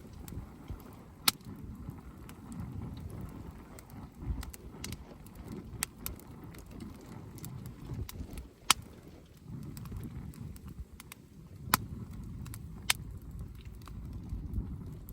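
Wood campfire crackling, with scattered sharp pops, five of them standing out, over a low, uneven rumble.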